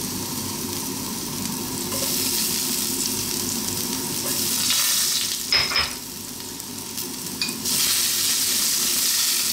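Ginger and garlic sizzling in hot oil in a nonstick frying pan, the sizzle getting louder about two seconds in as more garlic goes in. A little past the middle, a utensil gives a couple of sharp clinks against the pan as the aromatics are stirred.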